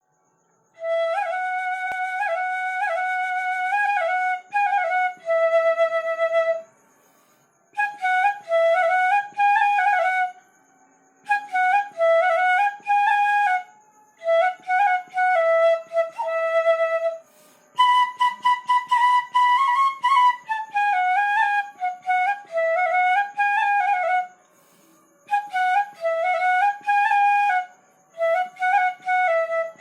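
Bansuri (bamboo flute) playing a Hindi film-song melody solo, in phrases of a few seconds separated by short breaths.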